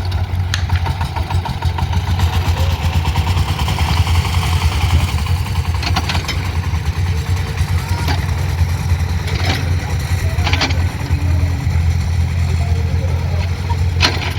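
JCB digger's diesel engine running steadily under work, with a few short sharp knocks scattered through.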